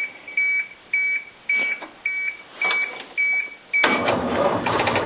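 School bus dashboard warning beeper sounding a series of short high beeps, about two a second. About four seconds in, the starter begins cranking the CAT 3116 diesel, which doesn't fire: the battery is still too low.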